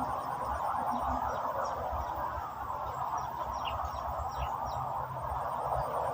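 A dense, steady outdoor animal chorus, with short falling chirps now and then and wind rumbling on the microphone.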